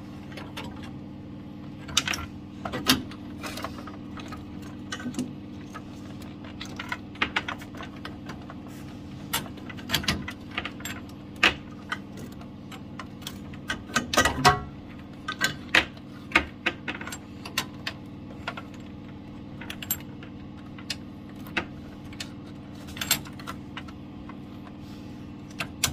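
Irregular metallic clinks and clicks of metal fittings and tools being handled during boiler pipework repair, with a cluster of louder knocks around the middle, over a steady low hum.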